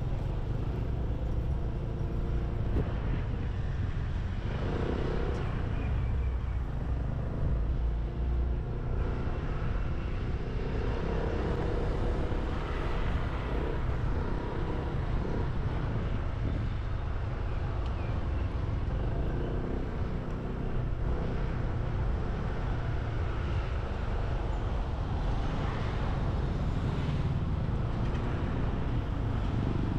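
Motorbike engine running steadily while riding, its pitch rising and falling a few times, with wind rumble on the microphone and passing road traffic.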